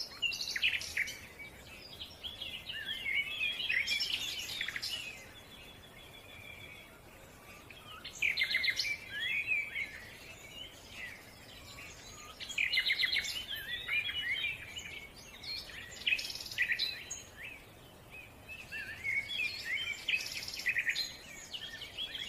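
A songbird singing rapid, high-pitched twittering phrases in bursts every three to four seconds, over faint steady background noise.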